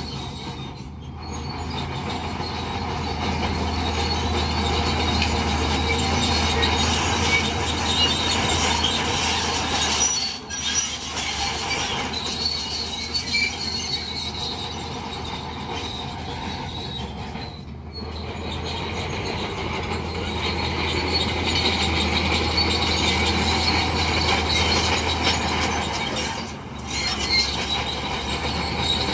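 Crawler bulldozer working: its diesel engine runs steadily while the steel tracks squeal and clank. The sound drops away briefly three times.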